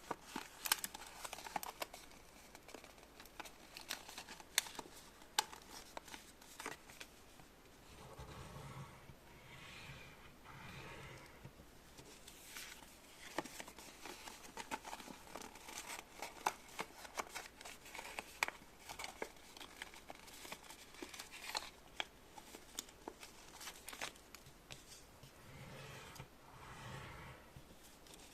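Crinkling and many small sharp clicks of things being handled at close range, with two short stretches of a low pitched hum about a third of the way in and near the end.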